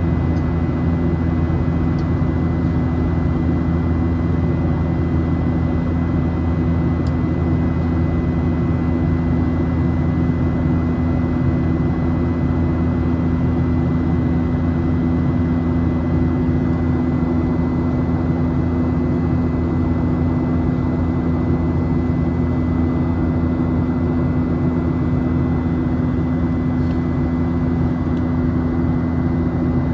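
Steady jet engine and airflow drone inside the cabin of a Boeing 737 in flight: a deep, even hum with a thin steady high whine over it, unchanging throughout.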